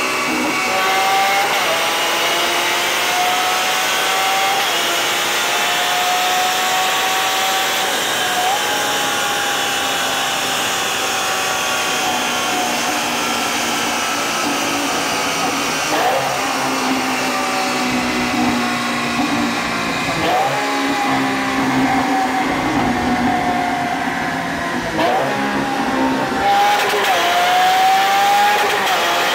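Lamborghini Aventador's V12 engine under full load on a chassis dyno. Its pitch climbs through each gear and drops sharply at each upshift, several times over.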